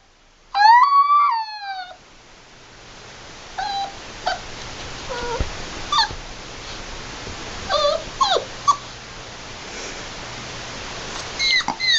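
Puppy giving one long high whining howl that rises and then falls in pitch, followed by scattered short squeaky yips and whimpers over a steady background hiss.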